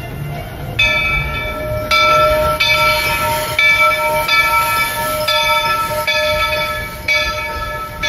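Steam locomotive's bell ringing steadily, about one strike a second, over the train's low running rumble. It starts about a second in.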